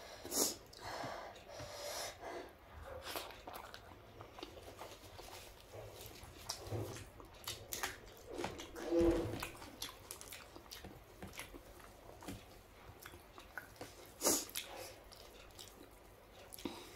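Close-miked chewing and wet mouth sounds of someone eating dosa and biting into a raw green chilli: many short smacks and bite clicks, with a louder mouth sound about halfway through.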